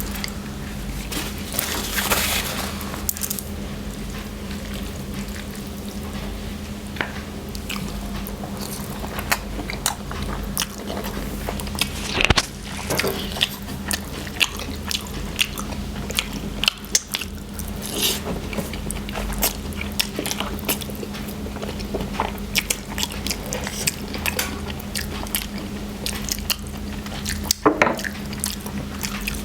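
Spicy instant noodles being eaten close to the microphone: chewing and wet mouth noises in many scattered short smacks, over a steady low hum.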